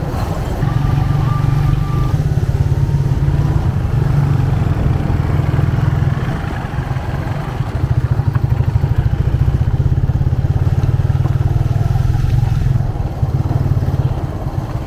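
Motorcycle engine running under way, heard from the rider's seat as a low, pulsing engine note. It eases off about six seconds in and picks up again about two seconds later. A brief high tone sounds about a second in.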